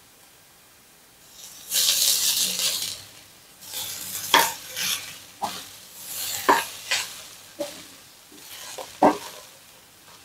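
Egg and rice frying in a stone-coated wok, sizzling in bursts as a silicone spatula stirs and scrambles the egg through the rice, with several sharp taps of the spatula against the pan. It starts after a second or so of near quiet, and the loudest sizzle comes about 2 s in.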